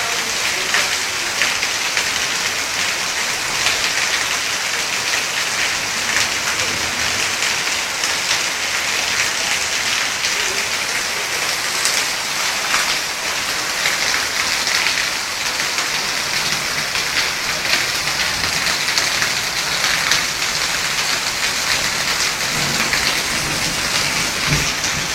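Steady rain falling and pattering on surfaces, a dense even hiss with fine crackle of drops.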